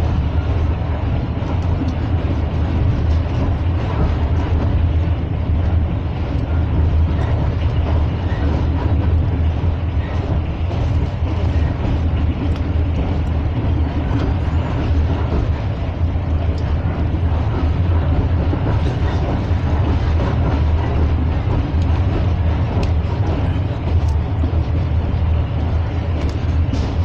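A passenger train running steadily, heard from inside the carriage: a continuous low rumble of wheels on track with an even rush of noise over it.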